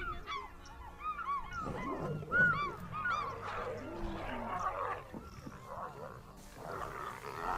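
Animals calling: many short, arched honking or squealing calls, repeating and overlapping, with a rougher noisy stretch in the middle.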